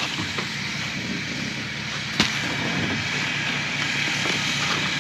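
Vehicle engine idling steadily, with one sharp knock about two seconds in.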